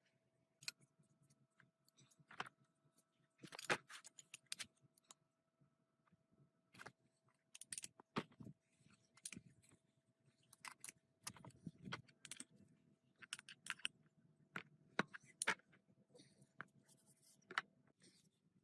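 Scattered light metallic clicks and clinks of small metal objects being handled, over a faint steady hum that stops near the end.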